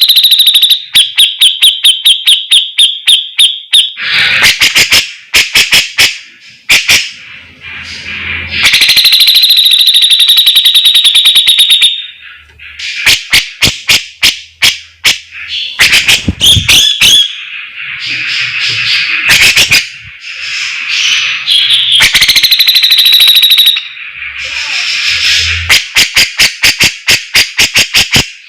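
Grey-cheeked bulbul (cucak jenggot) calling loudly and without pause: long harsh buzzing trills alternate with runs of rapid sharp clicking notes, several a second.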